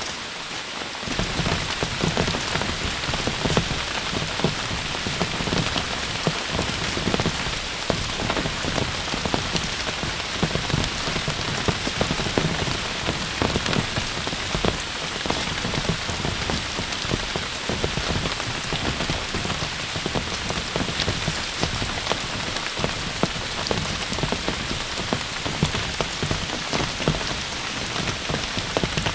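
Heavy rain falling steadily: a dense hiss of rain with countless fine drop impacts.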